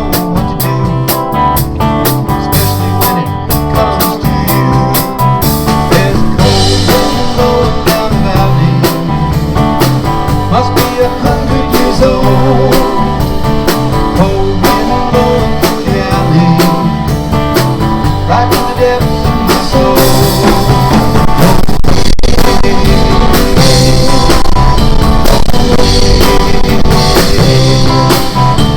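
Blues-rock song played by a band: guitar over a steady drum beat, growing louder about twenty seconds in.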